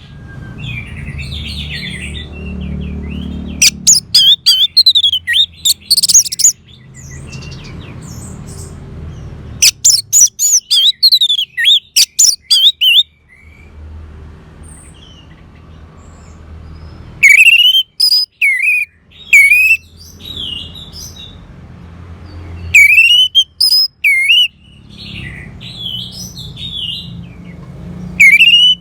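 Orange-headed thrush singing: loud runs of quick, sweeping whistled phrases that come in bursts every few seconds, with softer twittering and a low background rumble between bursts.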